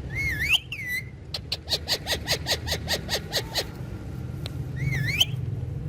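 Pet parrot vocalising: a warbling whistle at the start, then a quick run of about a dozen short, clipped notes at roughly five a second, and another warbling whistle near the end, over a steady low hum.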